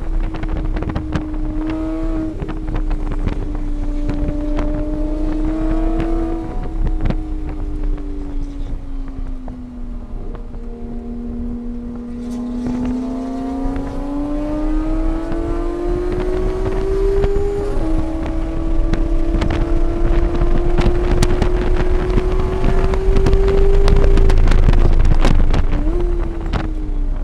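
Engine of a vehicle lapping a race circuit, recorded onboard with wind on the microphone. The revs sag into a slow corner, then climb steadily, drop suddenly at an upshift about two-thirds through, and climb again before falling away under braking near the end with a short rev blip on the downshift.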